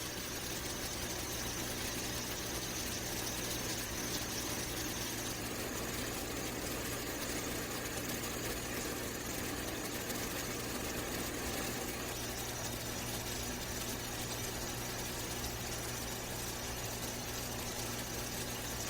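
Steady, unchanging machine-like hum with a constant hiss and a thin high whine.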